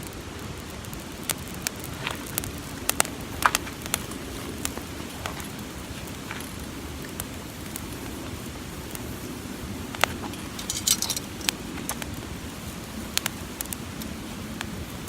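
Newly lit campfire of newspaper and kindling crackling, with irregular sharp pops and a short flurry of snaps about eleven seconds in, over a steady low rush.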